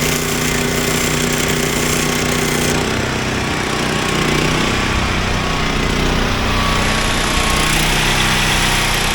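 Small portable gasoline generator running under load from metal-drilling tools, nearly out of gas. A steady whining tool sound stops about three seconds in while the engine keeps running.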